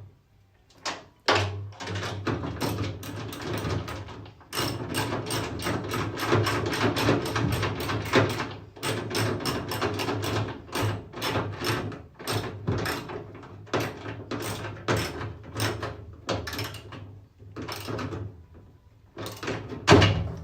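Bolts being tightened on a washing machine's motor mounting with a hand tool: a long run of rapid metallic clicking and scraping, broken by a few short pauses.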